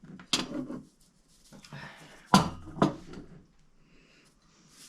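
A few sharp clinks and knocks of cutlery and dishes at a meal table, the loudest about two and a half seconds in.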